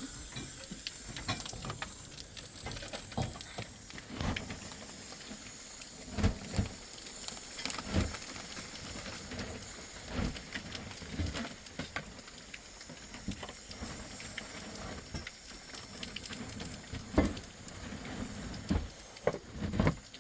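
Rain dripping and pattering in scattered, irregular drops and ticks over a faint steady hiss, with a few louder dull thumps.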